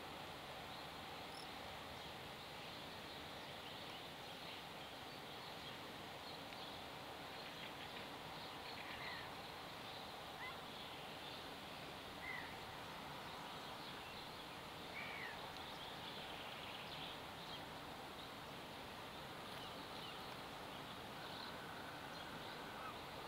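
Faint outdoor ambience: a steady hiss with a few short, scattered bird calls.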